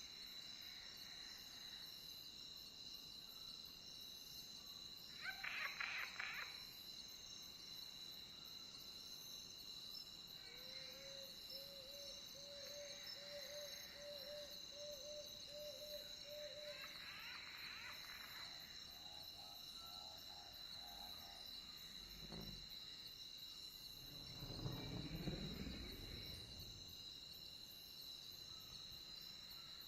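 Crickets chirping steadily and faintly, with a few other animal calls over them, among them a run of about a dozen short repeated low notes.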